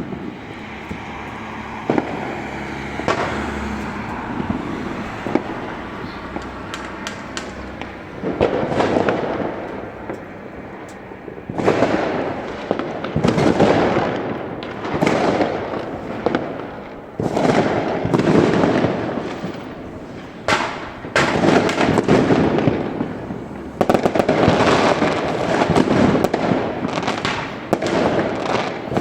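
New Year fireworks and firecrackers going off all over a town: many overlapping bangs and rapid crackling. They are sparse at first and grow into louder, denser waves from about eight seconds in.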